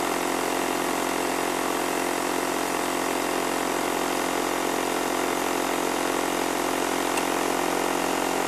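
Electric fan heater's blower running with a steady hum over a rush of air.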